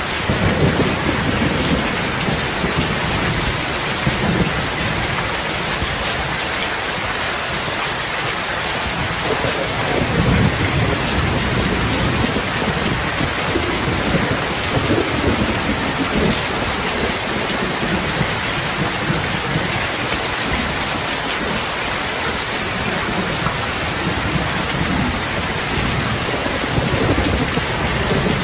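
Heavy rain falling steadily, with low rolling thunder that swells several times, most strongly about a third of the way in and again near the end.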